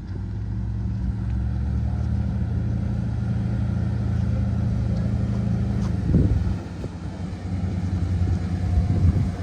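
Sakai road roller's diesel engine running with a steady low hum. Just after six seconds there is a short louder burst, then the engine sound drops and wavers before building again near the end.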